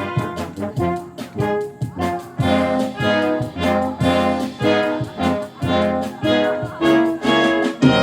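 Wind orchestra playing, the brass section sounding short rhythmic chords.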